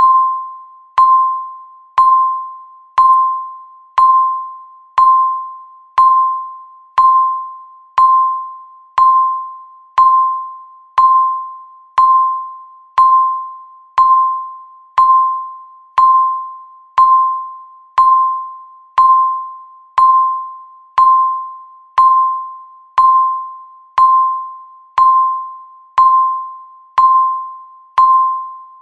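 Countdown timer beeping once a second: a single clear electronic tone, the same pitch each time, struck sharply and fading before the next.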